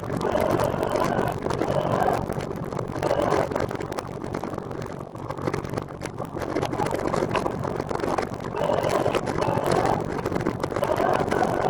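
Steady road noise of traffic and wind, swelling and fading every few seconds.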